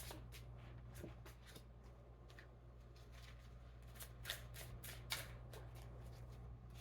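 Tarot cards being shuffled and handled: faint riffling and soft card snaps, a few sharper ones around four and five seconds in, over a low steady hum.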